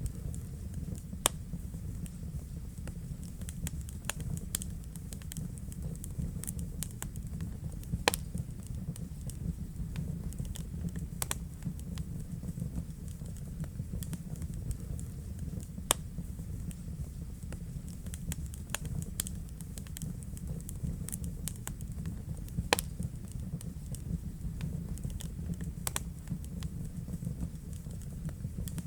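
Fire crackling in a fireplace: a steady low rumble of burning with frequent small pops and a handful of louder snaps scattered through.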